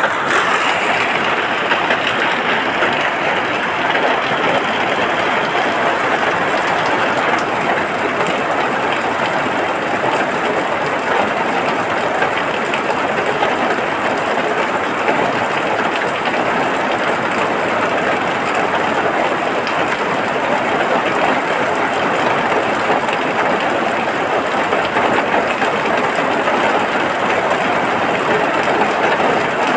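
Steady heavy rain falling, a dense, even hiss of drops with no let-up.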